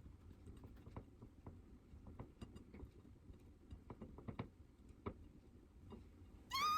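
Faint, irregular small clicks and taps of hands shaping rice balls with an onigiri mould kit. Near the end a loud, high-pitched steady tone starts.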